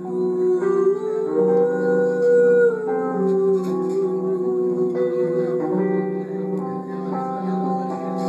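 Live band music led by acoustic guitar, with a sustained melody line that glides up about a second in, holds, then wavers with vibrato from about three seconds on, over steady lower notes.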